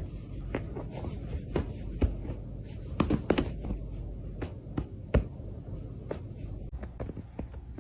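Irregular light taps and knocks, about a dozen, scattered over faint room noise, with the loudest around the middle.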